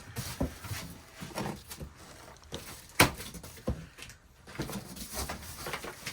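Boxes and their contents being handled and rummaged through: scattered knocks and rustling, with one sharp knock about three seconds in.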